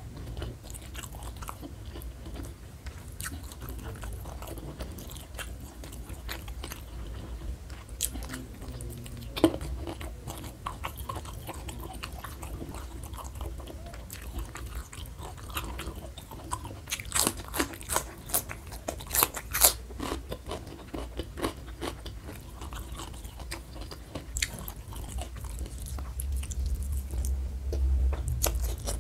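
Close-miked eating sounds: chewing and biting into crisp raw vegetables, with a run of loud crunches about two-thirds of the way through.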